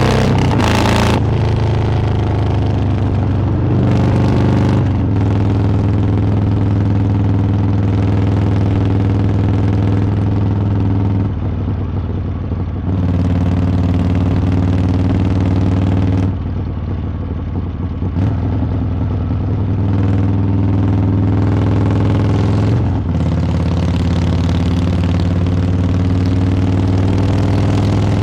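Harley-Davidson V-twin engine and exhaust running steadily under way. The sound drops briefly twice near the middle, then returns to its steady level.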